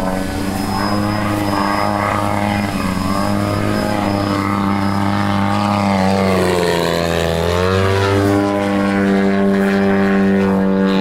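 The 100cc gasoline engine and propeller of a giant-scale 3D aerobatic RC airplane running steadily, dropping in pitch about six seconds in and climbing back a second or two later as the throttle is worked.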